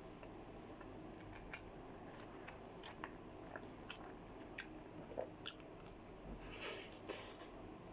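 Close-miked chewing and biting of kebab food: scattered small wet mouth clicks, with a brief louder crackle near the end.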